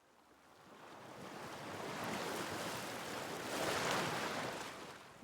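A rushing, wave-like noise that swells over about three seconds and then fades away.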